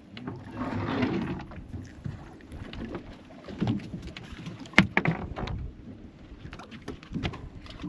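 Sounds aboard a boat being anchored: a rush of water or wind noise about a second in, then several sharp knocks and thumps on the boat, the loudest near the middle.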